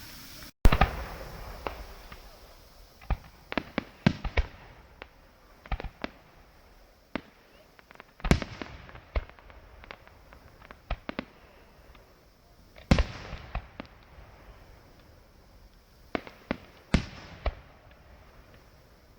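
Fireworks going off: four loud bangs a few seconds apart, with many smaller pops and cracks scattered between them.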